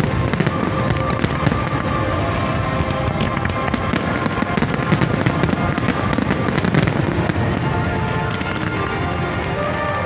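A fireworks display going off in a continuous barrage of bangs and crackles, with music playing along; the bursts thin out a little near the end.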